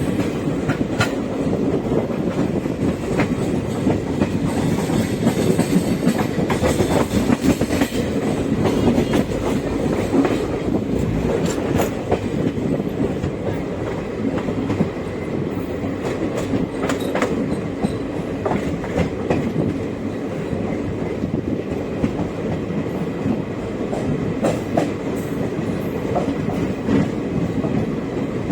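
Passenger train running at speed: a steady rumble of the coaches with wheels clicking over rail joints.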